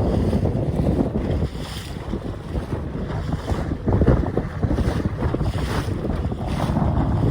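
Strong gusting wind buffeting the microphone as a heavy, uneven rumble, with brief rushing hisses of wind and sea every second or so.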